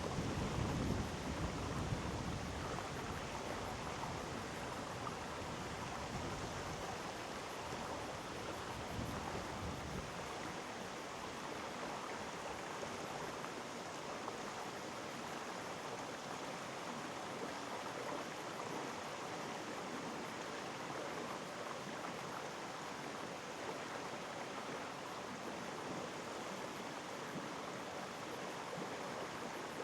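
Mountain stream rushing steadily over rocks in a valley gorge. A low rumble sits under it for the first several seconds and fades out.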